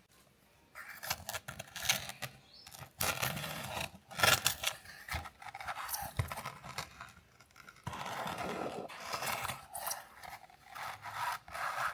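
Irregular scraping and rubbing strokes on a 1:18 scale model car, coming in short bursts with brief pauses and a few sharp clicks, starting about a second in.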